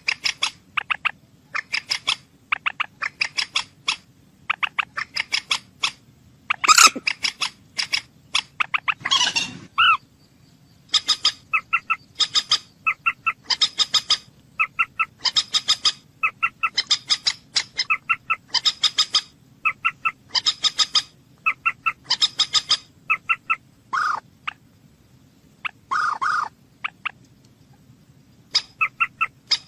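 A bird calling repeatedly: short, sharp notes in quick clusters of several a second, broken by brief pauses, with one longer, harsher call about nine seconds in.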